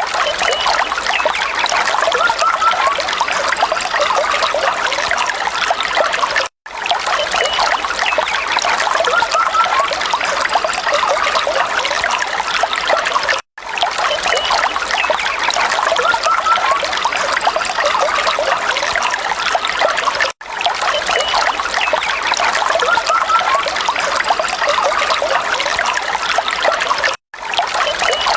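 Water trickling and running steadily, like a small stream over stones. The same few seconds repeat as a loop, broken by a brief dropout about every seven seconds.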